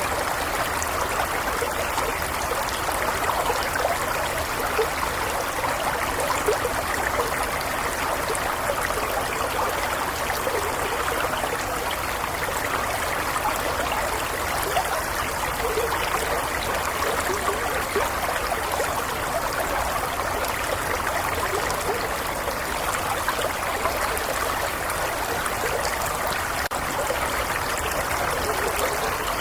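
A small stream flowing steadily, water trickling and babbling over stones in an even rush.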